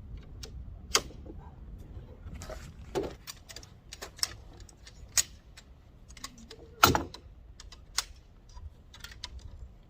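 Scattered, irregular clicks and light knocks of small hard objects being handled, with a louder knock about seven seconds in.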